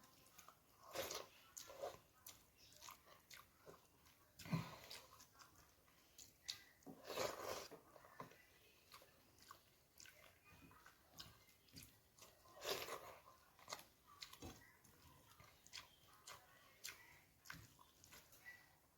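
Soft mouth sounds of a person chewing and biting food, coming in short irregular bursts with small crunches and clicks.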